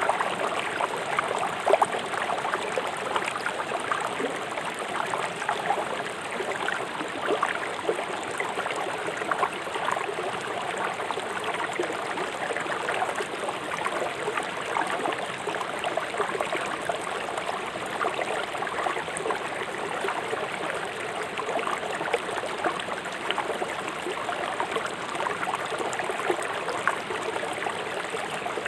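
Fast river water rushing and splashing over rocks, a steady babbling with many small splashes.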